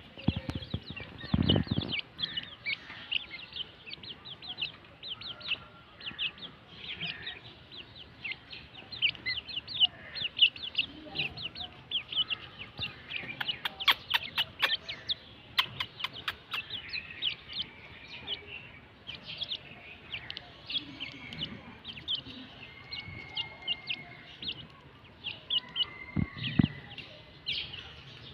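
Grey francolin chicks peeping continuously: many short, high cheeps in quick succession. A run of sharp clicks comes about halfway through, and there are a couple of low thumps, one near the start and one near the end.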